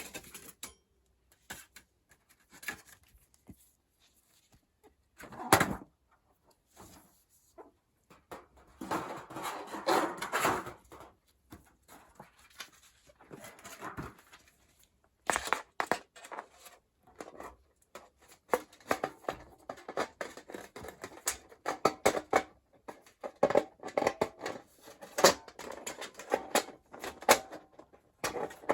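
Irregular clicks, knocks and rustling of things being handled, with one loud knock about five seconds in, a longer rustle around ten seconds in, and busier clicking through the second half.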